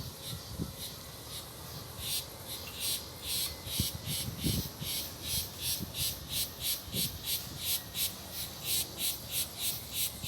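Insects chirping in a steady, regular pulse of about three to four chirps a second, louder from about two seconds in. A few low thuds sound underneath.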